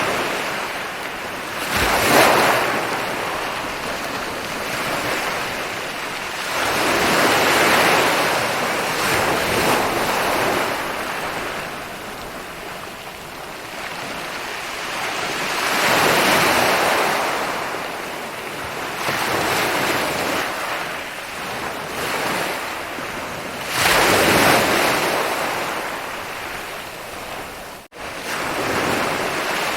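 Ocean surf rolling onto a beach: waves break in surges every few seconds, with the wash swelling and fading between them. There is a very short break in the sound near the end.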